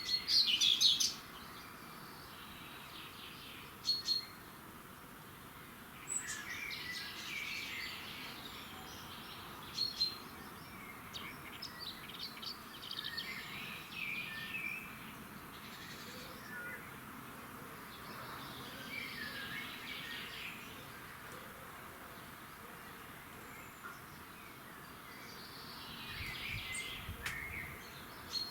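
Songbirds singing in short separate phrases of quick chirps and trills, with pauses of a few seconds between phrases, over a faint steady outdoor hiss.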